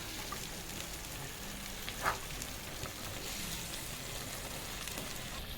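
Chicken drumsticks sizzling steadily in curry masala in a pan.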